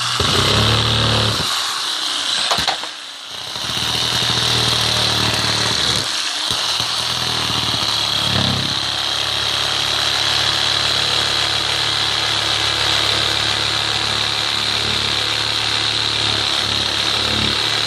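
A power saw cutting into wall sheeting, running steadily. It stops about one and a half seconds in and starts again about two seconds later.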